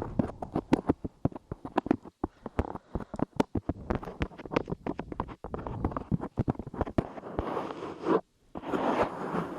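Light clay squished, pressed and pulled against a microphone's ears close up, giving rapid, irregular sticky crackling clicks. About eight seconds in it stops briefly, then resumes as a denser rustling crackle.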